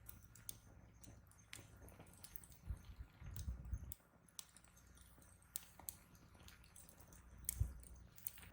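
Wood fire crackling: faint, irregular sharp pops and snaps over a low rumble of burning, which swells a few seconds in and again near the end.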